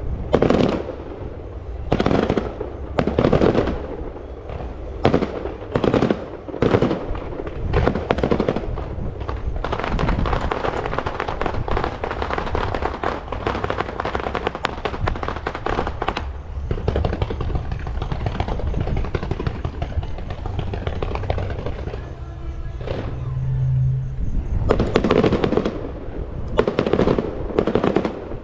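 Fireworks going off: a quick run of loud bangs, then a long dense crackling stretch, then loud bangs again near the end.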